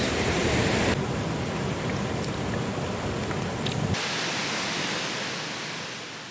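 Rushing mountain-stream water, a steady hiss that shifts abruptly about a second in and again about four seconds in, then fades out near the end.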